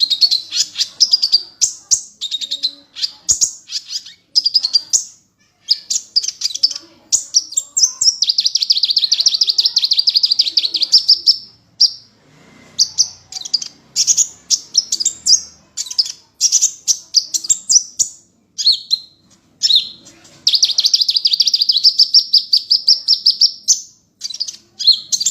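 A songbird singing continuously in high, fast phrases of short sweeping notes, broken by two long rapid trills, one about a third of the way in and one near the end.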